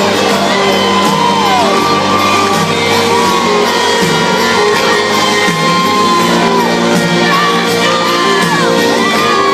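Live rock band playing in a large hall, with the crowd singing along and whooping over the music.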